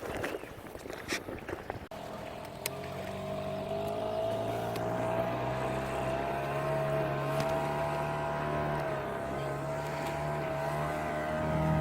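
Small 4.9 hp outboard motor starting up about two seconds in and running steadily, slowly growing louder, after a few clicks and knocks.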